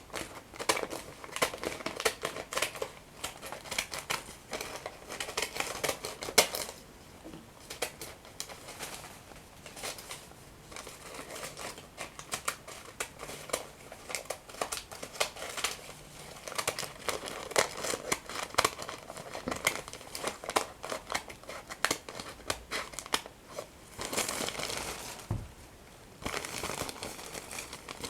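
Paper being crinkled and torn close to the microphone: dense runs of small crackles, with a longer unbroken rustle near the end.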